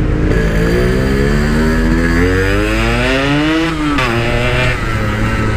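Yamaha RX-King two-stroke single revving up under acceleration, its pitch climbing for about three seconds. It drops sharply at a gear change or throttle lift, then picks up again.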